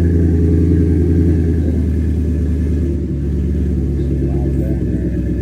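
Ford 7.3 L Godzilla gas V8 idling after a cold start, its exhaust coming through an MPI Performance Series cat-back dual stainless system with a deep, steady rumble. About three seconds in, the cold fast idle drops to a slightly lower idle.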